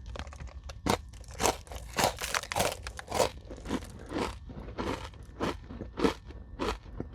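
A Nature Valley maple brown sugar crunchy granola bar, dipped in yogurt, being chewed: a run of crisp crunches about two a second.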